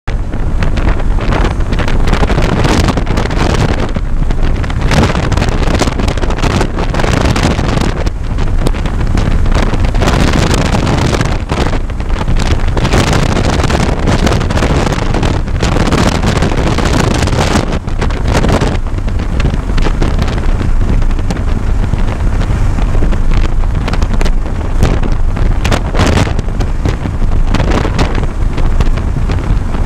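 2015 Scion FR-S's 2.0-litre flat-four boxer engine running at high revs under throttle at about 115 mph, heard from inside the cabin under heavy wind and road noise buffeting the microphone. It shifts up once, from fourth into fifth gear.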